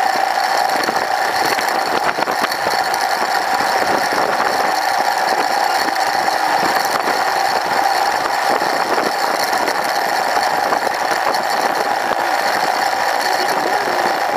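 Royal Enfield Himalayan's single-cylinder engine running steadily under way, with a dense rattle over a steady tone.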